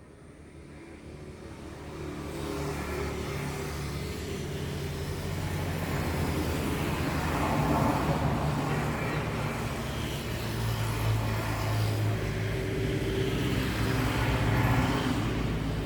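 A motor vehicle's engine running close by, getting louder over the first couple of seconds, then a steady hum with two swells, about halfway through and near the end.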